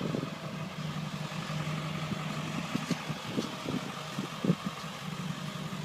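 A steady low engine hum, like a motor idling, with a few faint knocks about halfway through.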